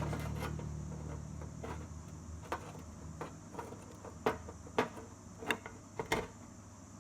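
A series of short, light clicks and taps at irregular intervals, two of them in quick succession near the end, like small hard parts being handled on a workbench. A low hum fades away over the first couple of seconds.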